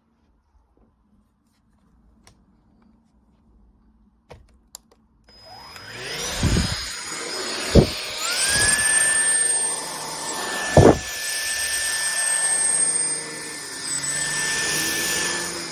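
After about five seconds of near silence, a Tefal X-Force Flex 14.60 cordless stick vacuum's motor starts, its whine rising and settling at a steady high pitch over a rushing hum. Three loud knocks sound while it runs.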